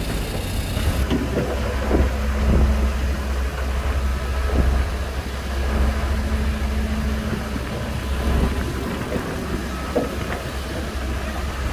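Shantui crawler bulldozer's diesel engine running with a steady low rumble, and scattered knocks through it.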